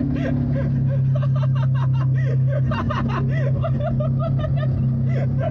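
BMW E36 318is four-cylinder engine running at a steady pitch, heard from inside the cabin while driving. The drone comes through solid engine mounts that pass more vibration into the car. Lighter chirping and rattling sounds over it throughout.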